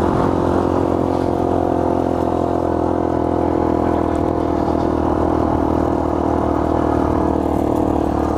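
Honda 50R minibike's 49cc four-stroke single running at a steady speed while riding along a trail, its pitch holding nearly level throughout.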